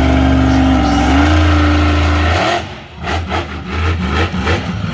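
Monster truck engine running hard at high revs, its pitch stepping up slightly about a second in, then dropping off sharply about two and a half seconds in and picking up again in short, uneven blips of the throttle.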